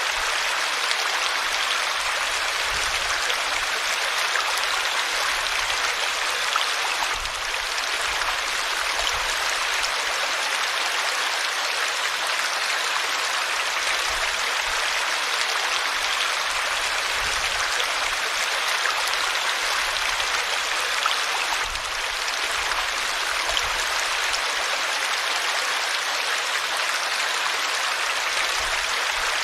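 River water flowing steadily over rocks: a constant rushing hiss with no break.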